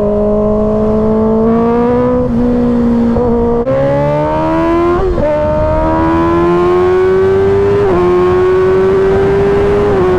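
2024 Kawasaki Ninja ZX-6R's 636 cc inline-four engine pulling under throttle, its pitch climbing steadily and breaking at gear changes about four times.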